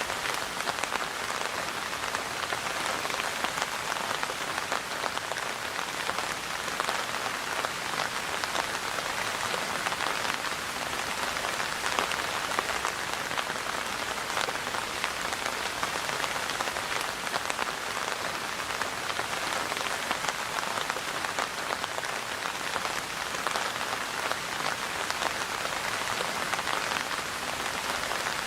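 Steady rain falling, a dense patter of many small drops hitting surfaces.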